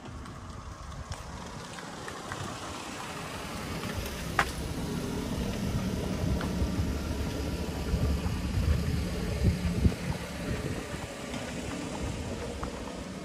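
A car engine running close by, growing louder over several seconds and easing off near the end. A single sharp click comes about four seconds in.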